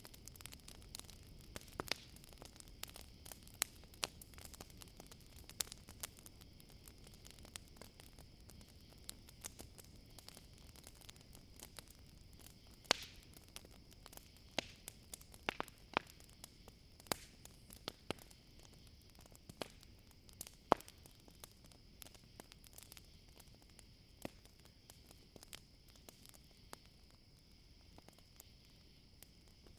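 Campfire crackling: irregular sharp pops and snaps, a few louder than the rest, over a steady high chirring of crickets.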